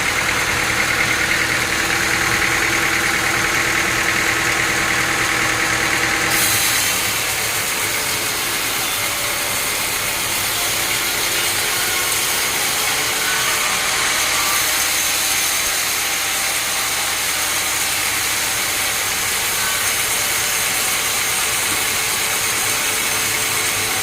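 Heavy sawmill machinery running steadily, with an engine-like hum. About six seconds in the sound changes: the lower hum thins out and a steady hissing noise higher up takes over for the rest of the stretch.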